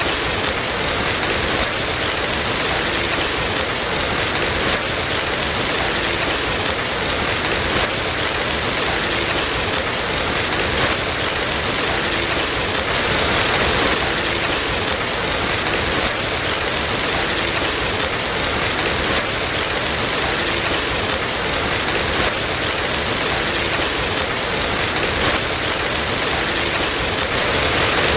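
Steady rain falling, a continuous dense hiss with gentle swells in intensity.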